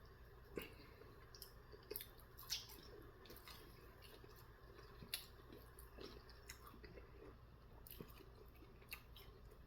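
Faint chewing and wet mouth clicks of someone eating sauce-coated chicken nuggets, in scattered soft ticks.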